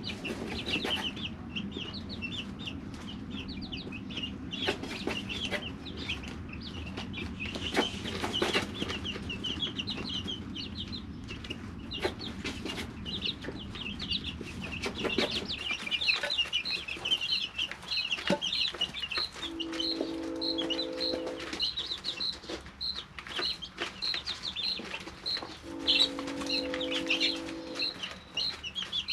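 Three-week-old chicks peeping, many short high peeps overlapping, with scattered clicks. In the second half one chick peeps steadily, about four times a second. A low rumble stops about halfway through, and twice a steady low tone sounds for about two seconds.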